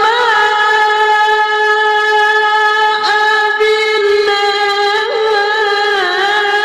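A single voice chanting in Arabic prayer style, holding long sustained notes with small melodic turns, and taking a fresh onset about three seconds in.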